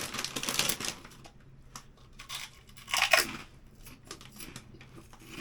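Crackling and crunching from cooking and handling a pan of scallops: a dense crackle that stops about a second in, then scattered short clicks and one louder burst about three seconds in.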